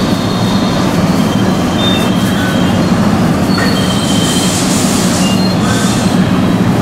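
A JR 105 series electric commuter train pulling slowly into the station platform: a steady rumble with short, high wheel squeals now and then.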